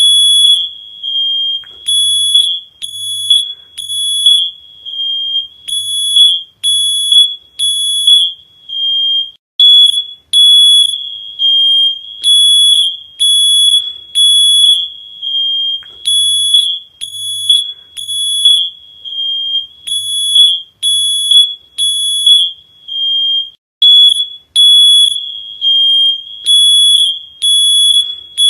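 Shrill electronic alarm beeping over and over in short, unevenly spaced pulses, about one or two a second.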